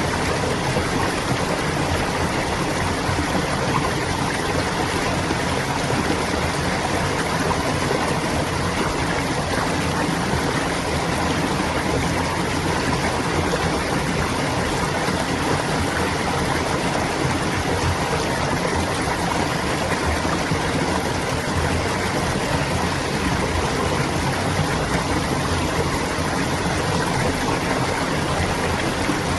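A stream of clear water flowing and babbling steadily over rocks, an even rushing sound with no pauses or changes.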